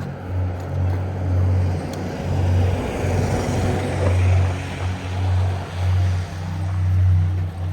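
Street traffic: a vehicle passing, its noise swelling and fading about three to four seconds in, over a low rumble that pulses unevenly.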